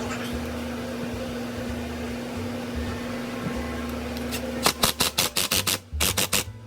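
Steady hum with a constant tone, then about ten sharp clicks or knocks in quick succession over the last two seconds.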